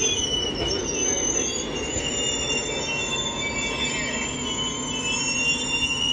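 Express train's passenger coaches rolling slowly past on arrival, with several wavering high-pitched wheel squeals over a steady rumble as the train brakes to a halt.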